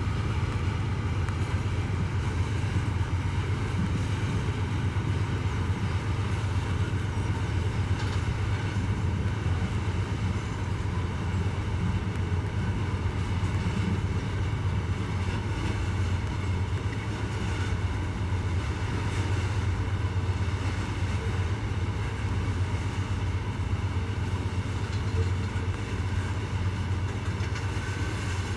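Loaded iron ore freight train running, a steady low rumble with no break or change.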